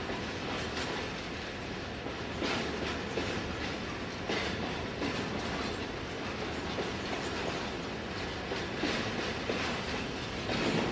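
Coal freight train rolling past, its wagon wheels clacking irregularly over the rail joints over a steady rumble.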